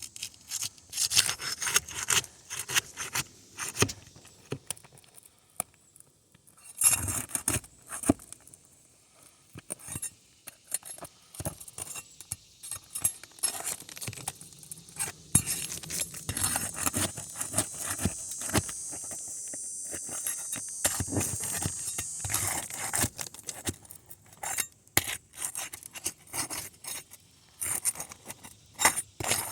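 A metal tool scraping and clinking against asphalt roof shingles as they are worked loose, in irregular clicks and scrapes. Past the middle comes a steadier, high scraping sound lasting several seconds.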